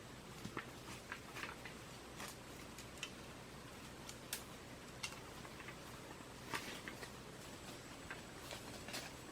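Scattered light clicks and taps, irregularly spaced, over a faint steady hiss.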